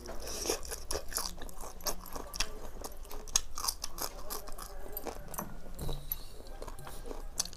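Close-up chewing and mouth sounds of a person eating panta bhat (fermented water rice) and prawn fry by hand: many short, irregular wet clicks and smacks as she chews.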